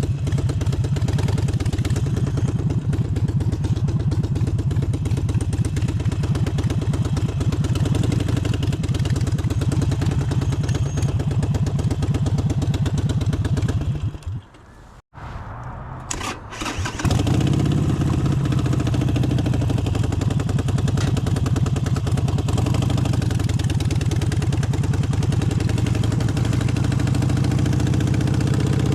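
Harley-Davidson Forty-Eight's air-cooled V-twin running steadily, then cutting out about halfway through. After a short quiet gap and a click, it is started again and settles back into a steady idle.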